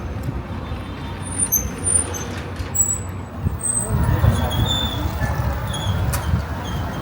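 Low rumbling outdoor noise, like road traffic, with scattered short high-pitched squeaks or chirps.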